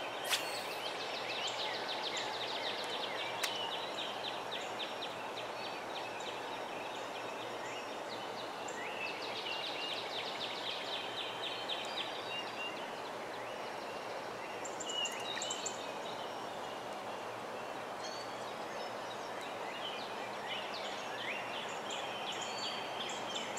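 Steady outdoor background hiss with a bird call of many rapid notes, heard twice, and a few short high chirps.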